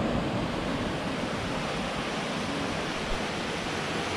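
A steady rushing noise with an uneven low rumble underneath, with no clear events.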